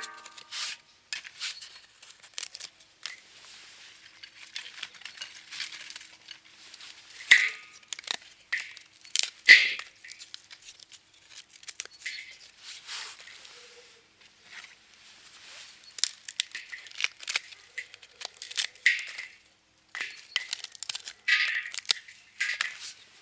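Firewood being split and broken apart: an irregular run of sharp cracks, snaps and tearing of wood fibres, loudest about 7 and 9.5 seconds in.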